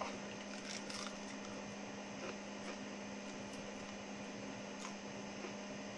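A steady low hum, with a few faint ticks scattered through it.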